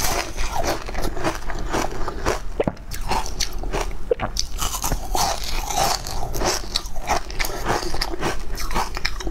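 Close-miked biting and chewing of a crisp, green powder-coated lattice-shaped snack: rapid sharp crunches, several a second, that go on steadily.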